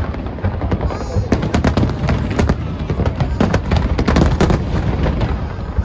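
A large aerial fireworks display going off in rapid succession: many sharp bangs and cracks, several a second, over a continuous low rumble of bursts.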